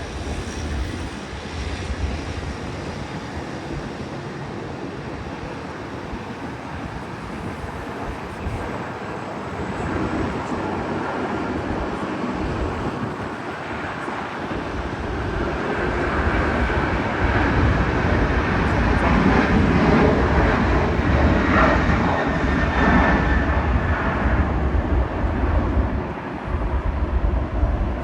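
Jet airliner engines at takeoff power, a steady noise with a high whine that builds over several seconds, is loudest a little past the middle, then eases slightly.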